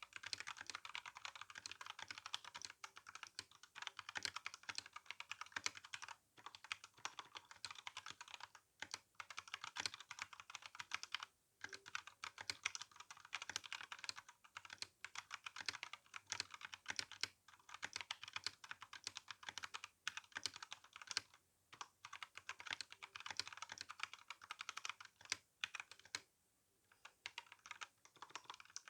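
Steady fast typing on a Royal Kludge RK61 mechanical keyboard with brown (tactile) switches and GSA keycaps: a dense run of keystroke clicks, broken by a few short pauses.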